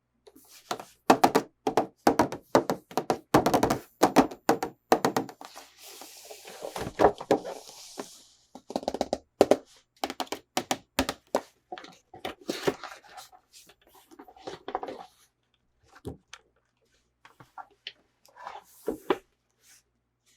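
Plastic toy pieces and packaging being handled close to the microphone: a quick, irregular run of clicks, taps and knocks, with a brief rustle about six seconds in.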